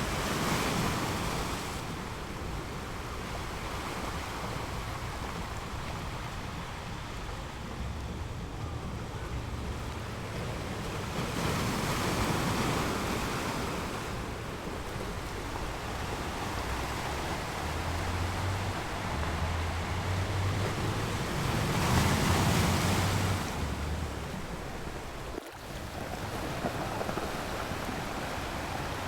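Sea waves breaking on a sandy beach, a steady wash of surf that swells with a larger breaker about every ten seconds. Wind rumbles on the microphone, and the sound dips briefly near the end.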